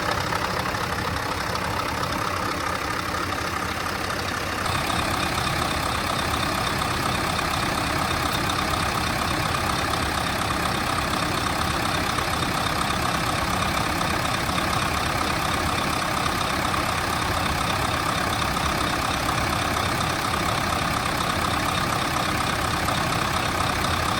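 Scania R650's 650-horsepower V8 diesel engine running steadily, slightly louder and brighter from about five seconds in.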